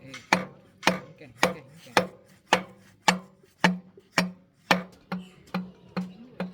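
Regular sharp knocks, about two a second, over a steady low hum; near the end they come a little faster and weaker.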